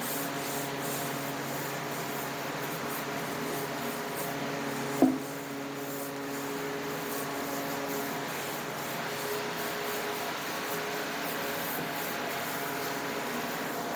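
Repeated hand-scrubbing strokes over a metal aircraft exhaust pipe wet with acid brightener, agitating the surface. A single sharp knock about five seconds in, over a steady low hum.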